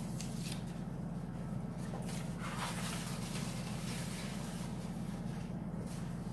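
Steady low hum with faint rustling and scraping from hands at work, the clearest about two and a half seconds in.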